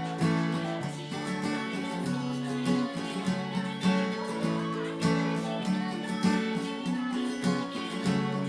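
Acoustic guitar strummed in a steady rhythm, playing chords of a J-pop song.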